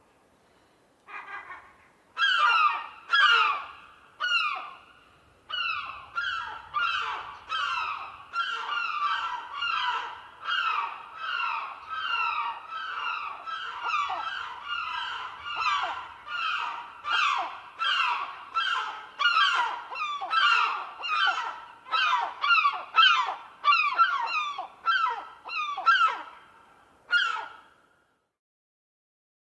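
A gull calling in a long series of short cries, each falling in pitch, repeated about one and a half times a second. The cries start about two seconds in and stop shortly before the end.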